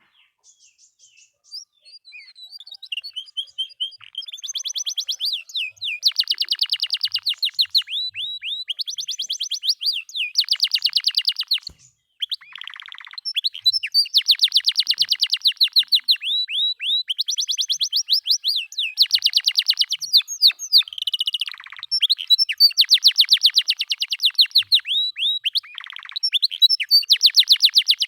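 Domestic canary singing: after a few scattered notes, long trills of rapidly repeated high notes, run after run, with a few lower buzzy rolls between them.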